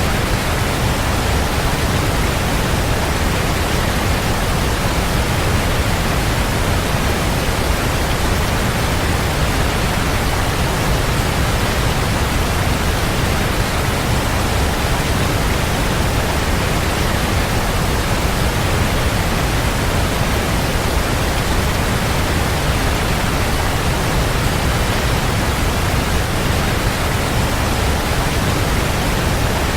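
Waterfall: a steady, even rush of falling water with no breaks or separate splashes, heavy in the low end.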